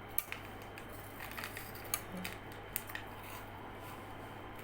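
A few short, sharp clicks and taps of snacks and their packaging being handled while eating, over a steady low hum.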